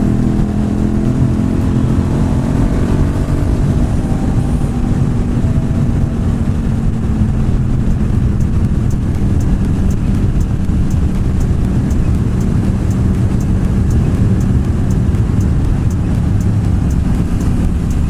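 Motorcycle riding at speed, heard from on the bike: a steady engine note under heavy wind rumble on the microphone, the engine easing slightly in pitch in the first few seconds.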